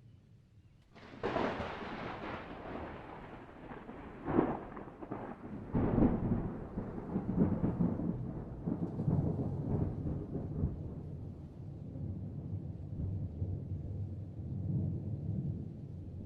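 Thunder: a sudden crack about a second in, sharper claps around four and six seconds, then a long low rumble that rolls on and slowly fades.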